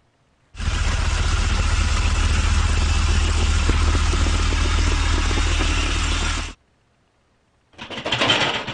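Dump truck engine sound effect: a truck engine running with a deep rumble for about six seconds, cutting in and out abruptly. Near the end another loud, clattering sound begins.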